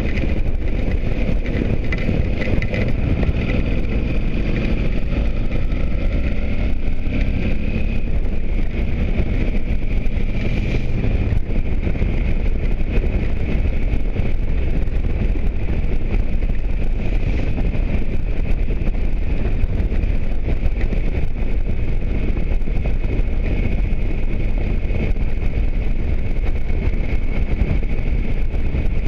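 Motorcycle riding at speed, engine running under heavy wind and road rumble on the microphone. The engine note falls over the first several seconds, then the ride goes on steadily with a constant high whine.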